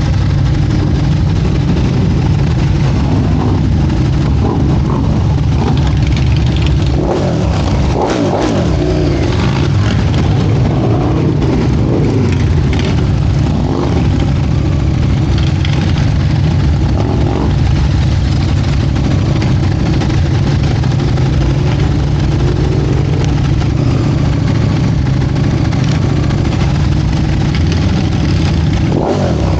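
Motorcycle engine running steadily, with the revs rising and falling a few times.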